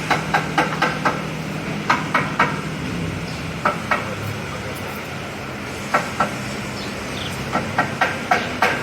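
A steady engine hum running throughout, with clusters of sharp metallic taps or knocks on top: a quick run of five in the first second, a few more around two, four and six seconds in, and another run near the end.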